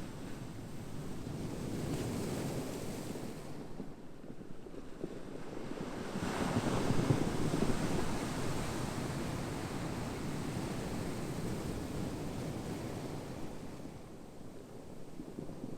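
Ocean waves surging and ebbing in a steady hiss. The biggest wave breaks about six seconds in and slowly washes out, with a lull near the end.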